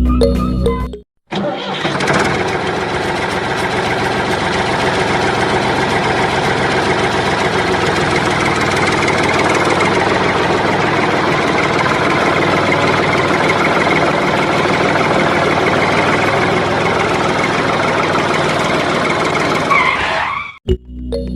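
An engine running steadily, starting about a second in and cutting off abruptly near the end.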